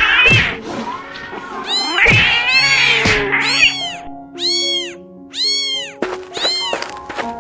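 A cat meowing over and over, about five short meows roughly a second apart, with background music of sustained notes underneath. A knock sounds right at the start.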